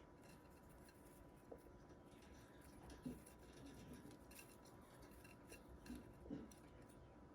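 Faint, scattered crisp clicks and scratches of baby budgies pecking and cracking seed, over a faint steady hum.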